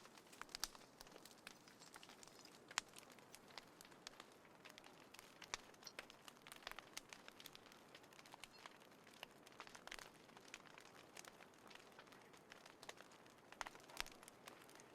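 Small wood fire crackling in a compact folding fire pit: faint, irregular pops and snaps over a soft hiss.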